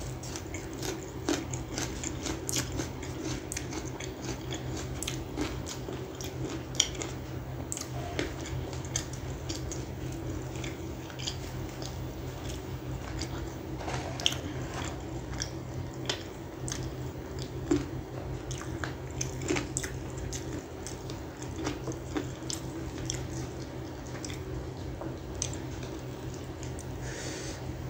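Close-miked chewing and biting of chicken, butter naan and raw onion, with many short wet mouth clicks, smacks and small crunches throughout.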